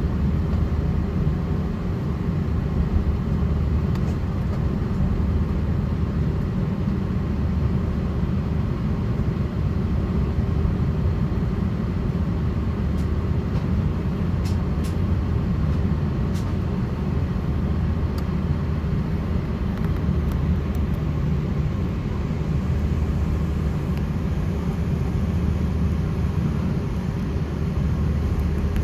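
Cabin noise inside an Airbus A330-900neo on the ground before takeoff: a steady low rumble of the Rolls-Royce Trent 7000 engines and cabin air, with a few faint ticks about halfway through.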